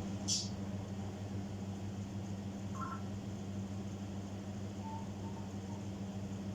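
African grey parrot giving a short high chirp near the start and a brief two-note beep about three seconds in, over a steady low electrical hum.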